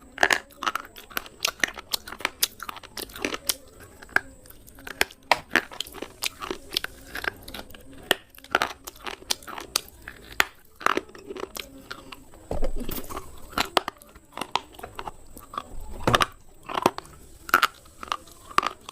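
Slate pencil pieces being bitten and chewed close to the microphone: a run of sharp, brittle crunches, several a second at times, with a longer, louder grinding crunch about two-thirds of the way through.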